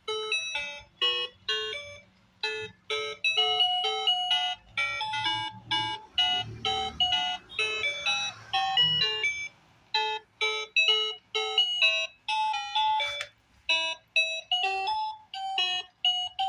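Children's learning laptop toy playing a simple electronic melody of short, quick beeping notes through its small speaker.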